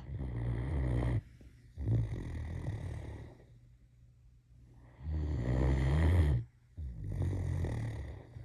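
Great Dane snoring in its sleep: four snores in two pairs, each pair split by a short break, with a quiet pause of over a second between the pairs.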